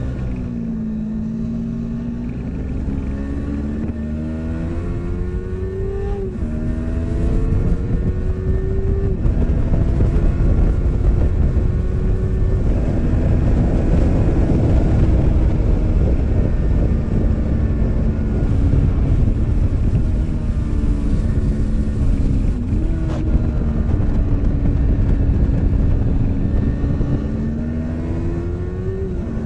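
Onboard sound of a 2017 Yamaha R3's 321 cc parallel-twin engine being ridden hard, its pitch climbing and dropping several times as it revs and changes gear, over heavy wind rumble on the microphone.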